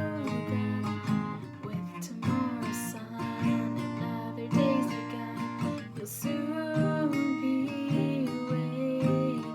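Acoustic guitar strummed in a steady rhythm, with a sung melody over it.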